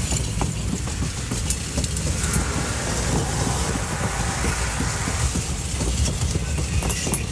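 A passing train: the cars make a steady deep rumble as they roll by, with irregular clacks of the wheels over the rail joints and a few faint high squeaks.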